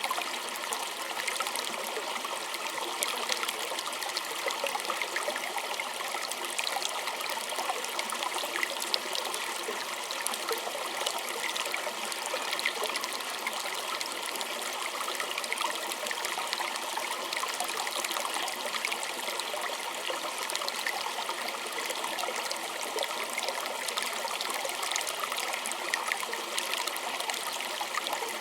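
Small stream trickling and burbling steadily, with many small splashes and drips over a continuous rush of water.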